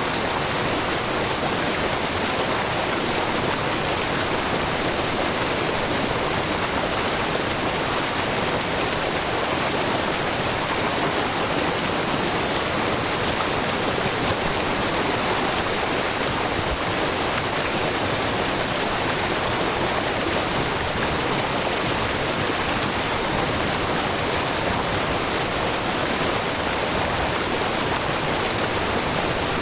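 Shiraito Falls, a low, wide spring-fed waterfall, with the babbling of a brook: a steady rush of falling and splashing water.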